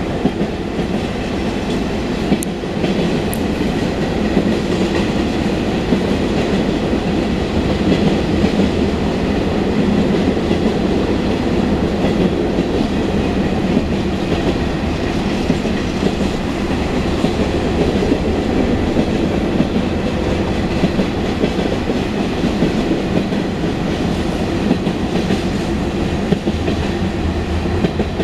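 Union Pacific mixed freight train rolling steadily past, its steel wheels clicking over the rail joints.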